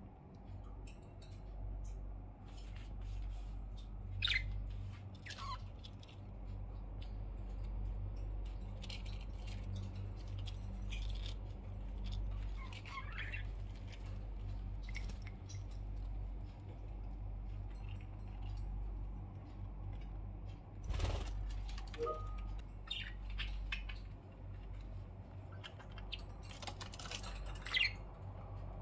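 Pet budgerigars giving scattered short chirps, with a few sharp clicks, over a steady low hum.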